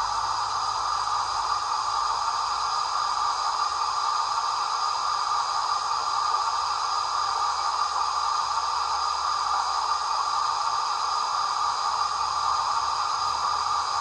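Steady hissing from a 00 gauge Black 5 model locomotive's DCC sound decoder: simulated steam hiss played through the small onboard speaker, with no chuffing beat.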